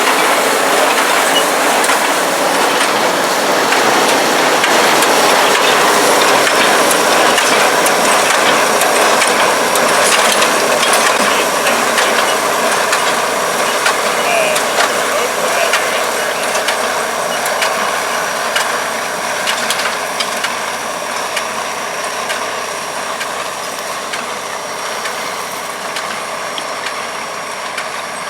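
International 1256 Turbo tractor's turbocharged six-cylinder diesel running steadily while the International 430 small square baler works straw, its mechanism clattering with many quick clicks and knocks. The whole sound grows slowly fainter in the second half.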